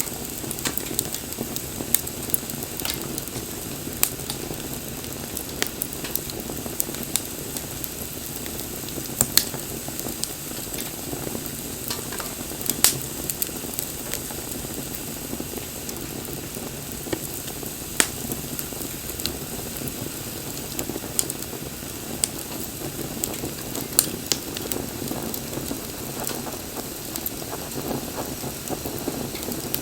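Wood campfire burning: a steady crackle and hiss, with sharp pops every second or so.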